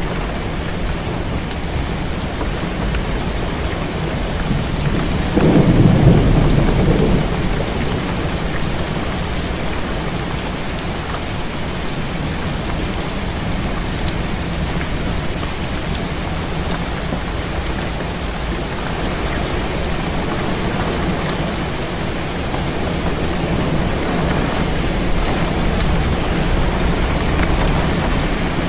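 Heavy rain pattering steadily on a window, with a low rumble of thunder that swells about five seconds in and dies away over a couple of seconds.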